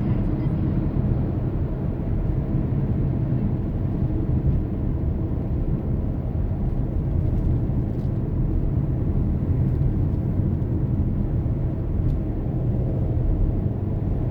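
Car on the move: a steady low drone of engine and road noise.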